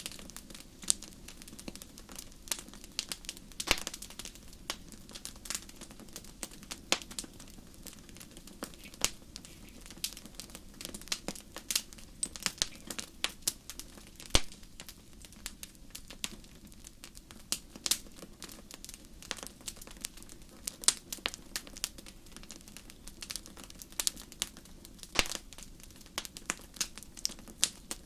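Wood fire crackling in a fireplace: a steady soft hiss under constant irregular snaps and pops, a few of them sharper and louder.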